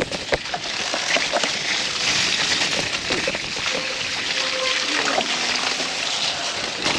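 Wet, splashing hiss of water and mud, with scattered small knocks and clicks throughout, typical of riding a mountain bike down a rain-soaked, muddy trail.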